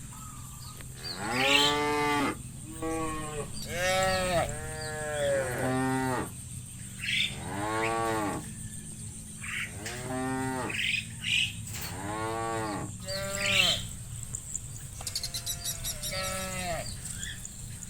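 A herd of cows mooing repeatedly, about a dozen calls one after another, each rising then falling in pitch and lasting up to a second or so.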